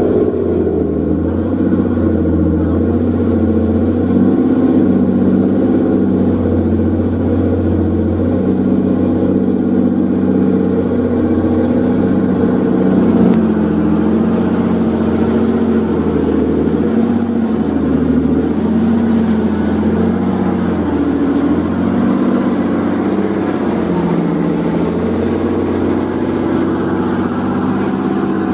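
Old truck's engine running steadily under load, its pitch rising and falling as the revs change.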